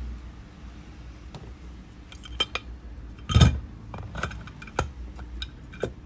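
Small tools and a phone handled on a workbench: scattered clicks and clinks of metal and glass, with one louder knock about three and a half seconds in, over a faint steady low hum.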